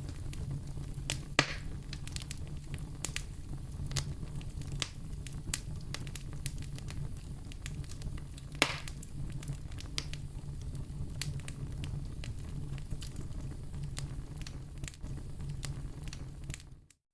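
Fireplace fire crackling: scattered sharp pops over a steady low rumble, with two louder snaps, one early and one about halfway. The sound dips briefly to silence right at the end.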